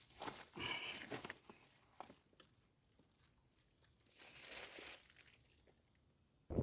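Crinkling and rustling, like something being handled, with a few sharp clicks in the first second and a half and a swelling hiss about four seconds in.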